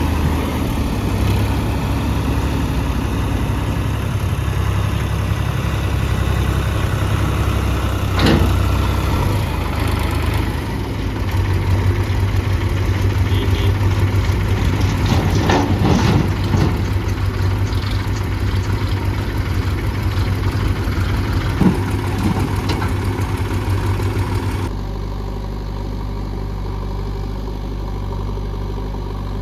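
Heavy diesel engine running steadily near idle, with a few short knocks about a third of the way in and around the middle. Near the end the sound turns suddenly duller and quieter.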